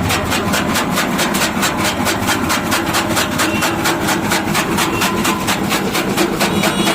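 Tractor engine running steadily with an even beat of about seven pulses a second.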